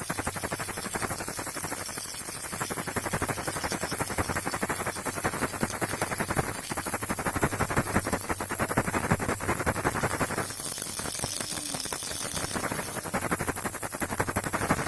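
Baby rattle shaken continuously: a dense stream of fast small clicks, with a steady hiss underneath.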